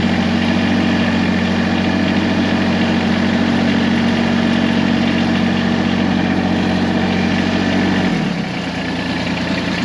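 Tractor engine idling steadily. About eight seconds in, its note drops and it gets a little quieter.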